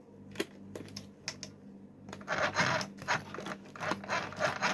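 Handling noise around a mini sewing machine: scattered sharp clicks and taps, then irregular rustling from about two seconds in, over a faint steady low hum.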